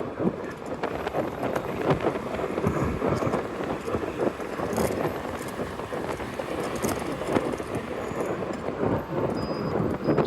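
Wind buffeting a rider's microphone on a moving electric scooter, mixed with road and traffic noise: a continuous rushing noise broken by irregular thumps.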